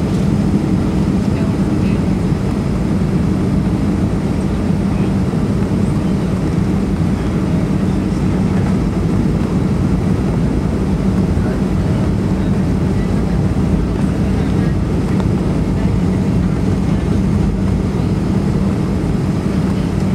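Steady flight deck noise of a Boeing 757 in flight: an even rush of airflow with a constant low hum underneath.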